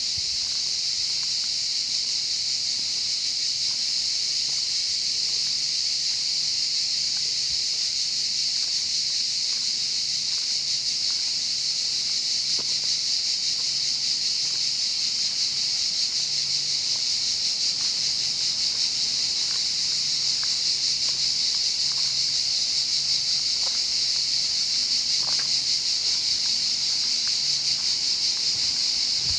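Chorus of cicadas: a dense, steady, high-pitched buzzing that does not let up.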